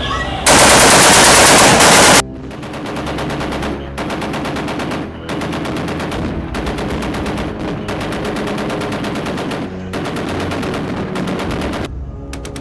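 Automatic gun firing in long bursts. A very loud, dense burst starts about half a second in. Several runs of rapid shots follow, broken by brief pauses, and the firing stops near the end.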